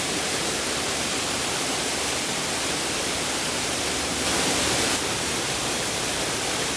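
Steady rush of flowing water, briefly a little louder and brighter about four seconds in.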